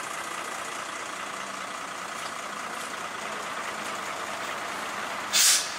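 Heavy diesel engine running steadily, with a short, loud burst of hiss about five seconds in.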